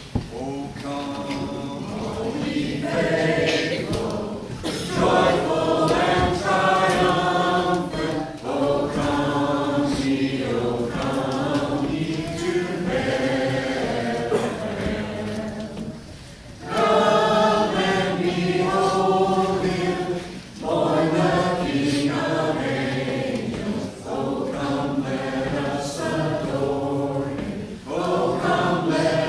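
A congregation singing a Christmas carol together, unaccompanied. The singing comes in sustained phrases with short breaks for breath between them.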